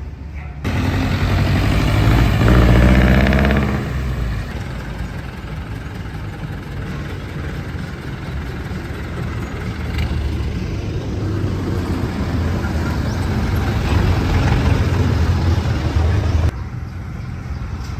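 Street traffic with a motor vehicle's engine running close by. The engine gets louder and rises in pitch about two to four seconds in, then settles into a steady traffic rumble.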